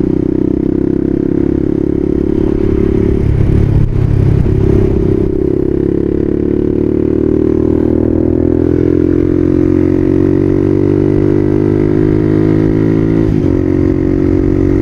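Dual-sport motorcycle engine running under way as the bike is ridden. Its note breaks briefly a little over three seconds in, climbs slowly, then breaks again near the end, as at gear changes.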